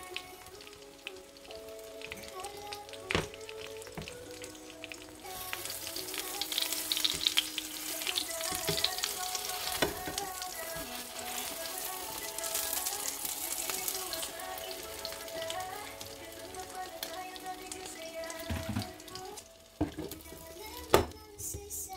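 Egg omelette sizzling in a nonstick frying pan; the sizzle grows louder from about five seconds in, as a spatula works under it. Background music plays underneath, and there is a sharp clink near the end as a plate is set over the pan.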